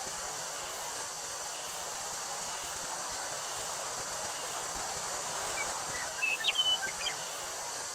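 Wind rustling through a wheat field, a steady hiss, with a continuous high cicada drone. About six seconds in, a bird gives a brief run of chirps.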